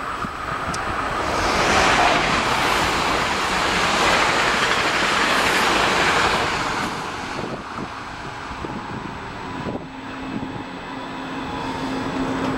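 A red regional electric train passing close by: a rushing of wheels on rail that swells to its loudest in the first half, then fades as the train runs away down the line. A steady low hum comes in about ten seconds in.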